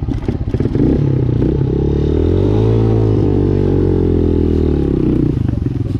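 A small dirt bike engine under throttle. Its revs climb over a couple of seconds and then ease back down, with a choppy, uneven sound at the start and the end.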